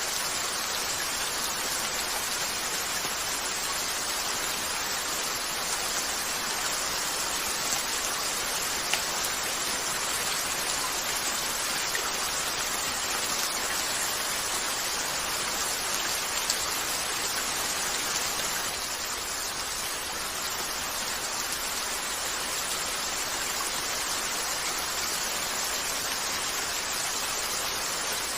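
Steady rain hiss, with a few sharp pops from a crackling wood fire.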